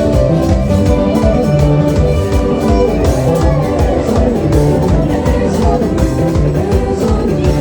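A live band playing upbeat dance music, with guitar over a steady beat.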